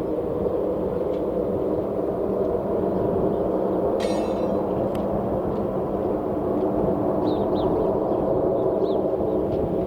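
Railway locomotive running with a steady hum of several held tones, and a brief sharp ringing sound about four seconds in.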